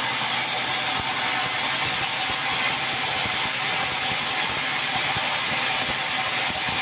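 Sawmill band saw running through meranti timber: a steady, even hiss over a faint low hum.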